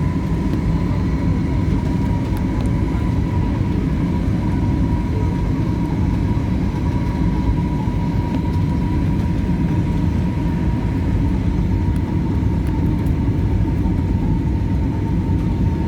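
Steady cabin noise of a passenger aircraft in flight, engines and airflow making a constant low roar with a thin, steady whine above it.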